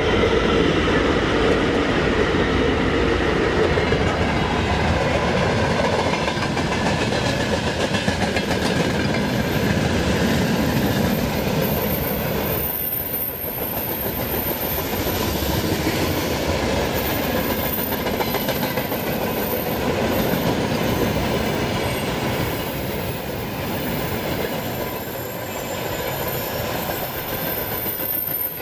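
Train running past on the line, a sustained steady rumble of wheels on rail with clickety-clack from the rail joints.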